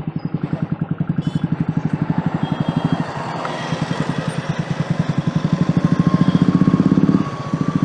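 Royal Enfield Bullet single-cylinder motorcycle engine running under way with a rapid, even thump. It grows louder from about three seconds in as the rider opens the throttle, then drops off suddenly near the end as the throttle is closed.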